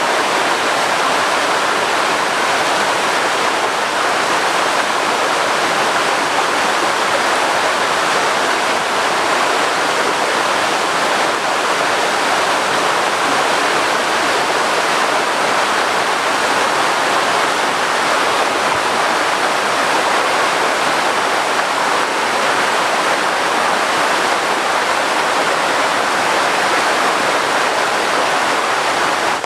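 Heavy tropical downpour: a loud, steady hiss of rain with no let-up, ending abruptly.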